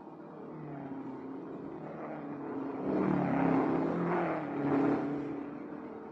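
Racing car engines running at speed, their pitch shifting as they rev and pass, louder for a couple of seconds in the middle.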